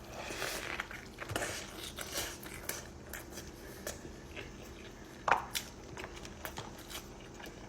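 Close-up chewing and biting of food: wet mouth clicks and smacks in an uneven run, with one louder mouth sound about five seconds in.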